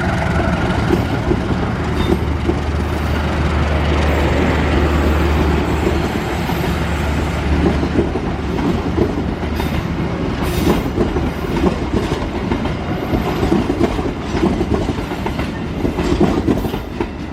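Train passing: a low, steady diesel locomotive engine drone for the first six seconds or so, then the wheels of the carriages clattering over the rail joints.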